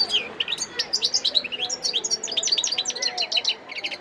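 Wild-caught European goldfinch singing: a fast, unbroken run of twittering notes, ending in a quick trill.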